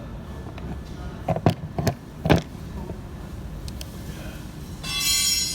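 Several sharp knocks about a second in, then a brief high rasping burst near the end, over a steady low background rumble.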